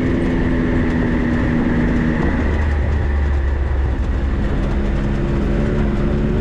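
A 4x4's engine running as it drives slowly over a rough, muddy trail, with a deep low rumble. The engine note drops off about two seconds in and picks back up near the end.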